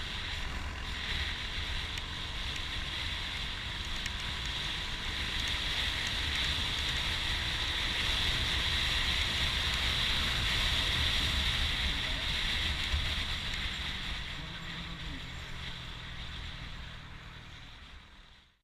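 Wind rushing over the microphone while a Motorstar Nicess 110 scooter is ridden at speed, with its engine running underneath. The sound swells to a peak in the middle, then fades away near the end.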